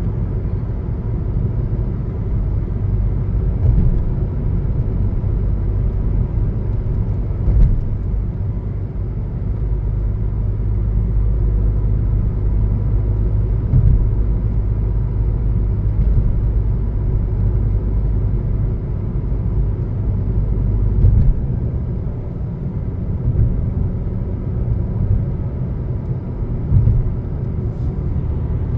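Car driving along a country road, heard from inside the cabin: a steady low rumble of engine and tyre noise, with a few short knocks from bumps in the road.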